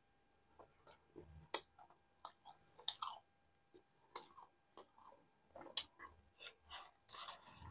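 Close-miked chewing of a mouthful of naan soaked in nihari stew, with sharp wet mouth clicks and smacks at irregular moments. There is a longer, noisier stretch near the end.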